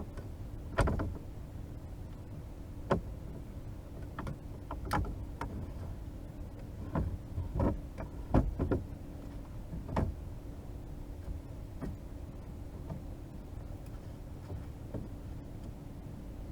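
Irregular knocks and thumps in a fishing boat, about a dozen, most of them in the first ten seconds, over a steady low hum.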